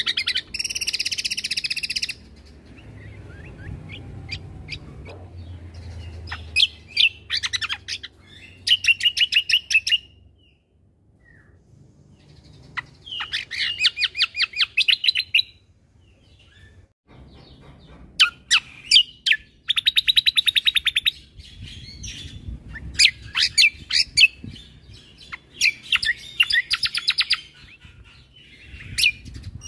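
Cucak kombo (kecial kombo) songbird singing in repeated bouts of rapid, high trilled notes. Each burst lasts a second or two, with short pauses between them.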